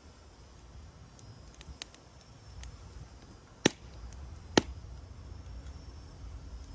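Wood fire crackling: a few faint snaps, then two loud sharp pops a little under a second apart in the middle, over a low steady rumble.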